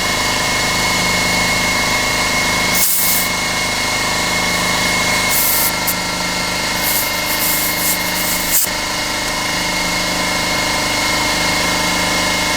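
Air compressor running steadily, with several short bursts of air hissing from the air chuck as air is put into the freshly plugged tire: once about three seconds in, then a run of bursts from about five and a half to nearly nine seconds in, ending with a click.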